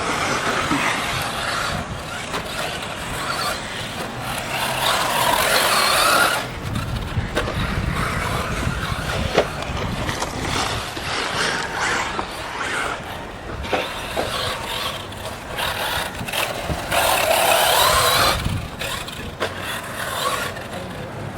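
Electric-converted Kyosho Inferno MP9 1/8-scale RC buggy running laps on a dirt track: a rushing hiss of tyres and drivetrain that swells and fades as it speeds by, loudest twice, with a few sharp knocks along the way.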